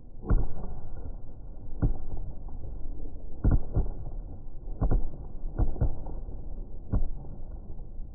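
Aerial fireworks shells bursting: about nine sharp bangs at uneven intervals, some in quick pairs.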